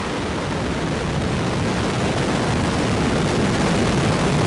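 Terran 1 rocket's nine methane-oxygen Aeon 1 first-stage engines firing at liftoff: a steady rushing rumble that grows slightly louder.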